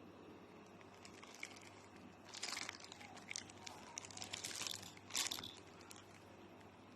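Crinkling and light clicks of plastic packaging being handled, in a few short bursts from about two seconds in, the loudest near the end.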